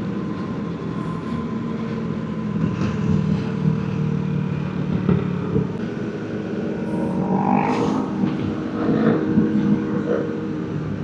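Motorcycle engine running at a steady cruising speed, its pitch shifting slightly now and then.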